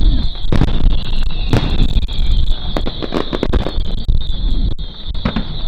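Fireworks display: shells bursting in a string of sharp bangs, the loudest about half a second and a second and a half in, with a quick cluster of bangs around three seconds, over a steady high-pitched hiss.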